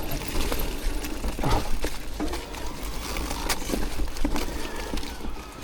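Electric mountain bike being ridden on a wet trail: tyre noise over dirt with frequent clicks, knocks and rattles from the bike, and a steady low wind rumble on the microphone.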